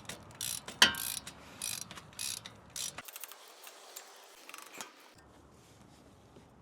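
Hand ratchet wrench clicking in short bursts, about two a second, while working the front hub bolts of a Ram 2500 axle. The bursts fade to a few fainter clicks after about three seconds.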